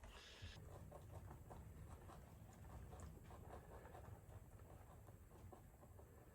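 Rabbits eating carrots: a faint, steady run of quick little nibbling and crunching clicks.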